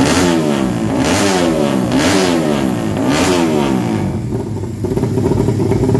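Drag-racing 200cc underbone motorcycle engine revved in about four throttle blips roughly a second apart, its pitch rising and falling each time, then settling to a steadier run for the last two seconds.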